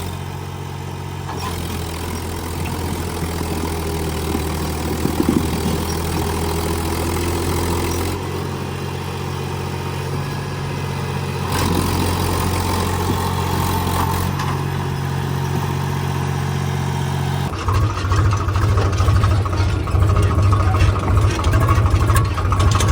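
Tractor's diesel engine running steadily, its note shifting a few times, then turning heavier and more pulsing for the last few seconds.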